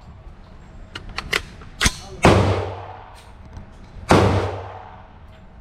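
Two gunshots about two seconds apart, each ringing out in a long echoing tail, with a few lighter clicks and knocks before the first shot.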